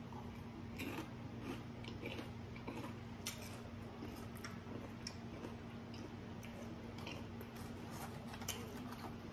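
A man chewing tortilla chips: faint crunches and clicks of the mouth spread through the chewing, over a steady low hum.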